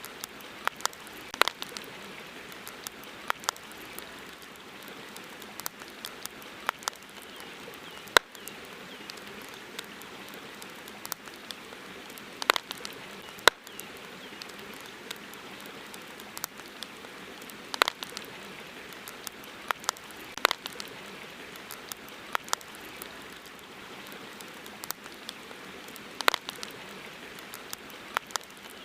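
Wood campfire crackling, with sharp pops coming at irregular intervals, sometimes singly and sometimes in quick clusters, over a steady wash of river water.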